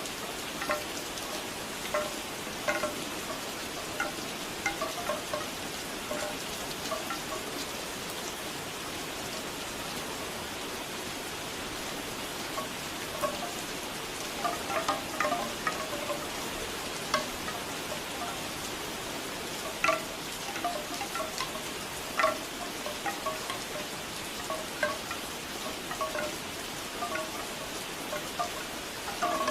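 Bamboo wind chimes clacking in loose irregular clusters over steady rain.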